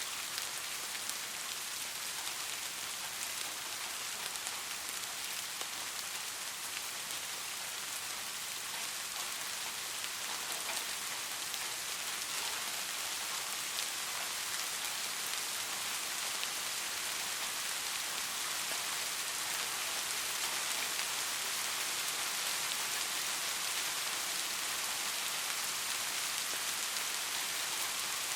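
Steady rain falling on a street: a dense, even hiss with scattered sharp drop ticks, growing slightly louder over the stretch.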